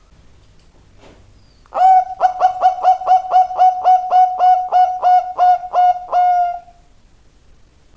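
Zebra dove (perkutut) singing: after a short pause, a quick run of about seventeen short, evenly spaced coos, three to four a second, lasting about five seconds.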